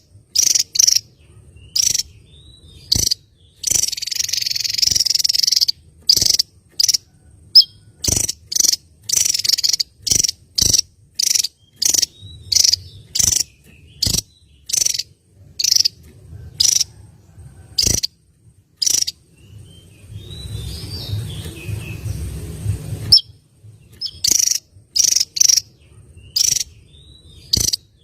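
Recorded songbird calls for masteran training: a fast series of short, sharp, high chips, about one or two a second, broken by a few longer rapid high trills, with insect-like trilling underneath.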